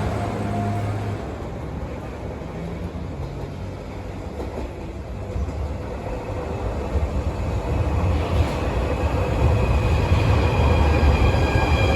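A train approaching: a low rail rumble that grows steadily louder over the second half, with high whining tones joining in near the end.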